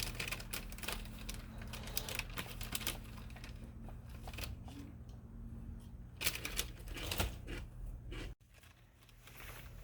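Swedish torch log burning, the wood crackling and popping irregularly. The sound drops out abruptly about eight seconds in.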